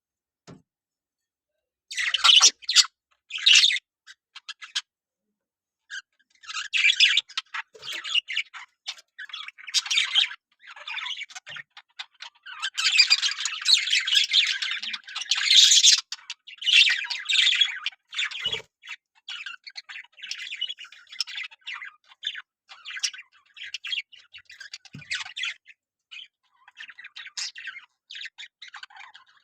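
Budgerigars chattering and squawking in irregular bursts, starting about two seconds in and busiest around the middle.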